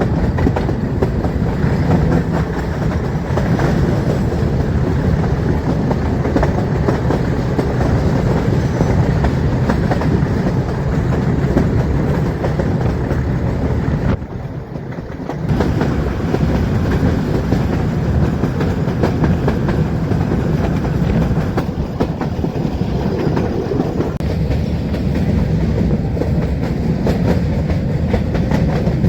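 Metre-gauge passenger train running along the line, its wheels clacking steadily over the rail joints. The sound drops briefly for about a second roughly halfway through, then resumes.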